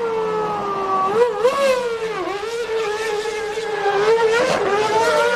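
Formula 1 racing car engines screaming at high revs, the pitch dipping and climbing again several times as the cars change speed and gear.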